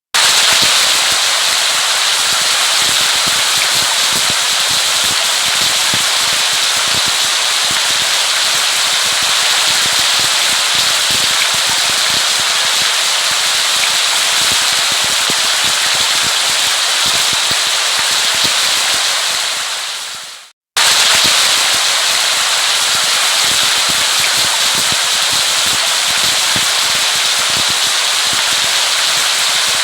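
Steady heavy rain: a dense patter of drops over a constant hiss. About twenty seconds in, it fades out for a moment and then starts again.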